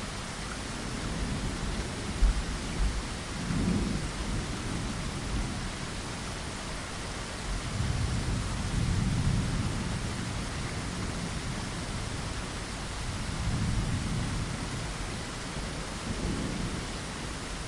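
Steady rain pattering against window glass, with low rumbles of thunder swelling and fading several times.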